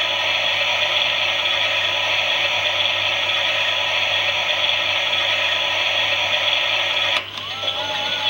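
Toy Klein Miele washing machine running, its small motor and gears whirring steadily. About seven seconds in it cuts out briefly, then starts again with a whine that rises and then holds steady.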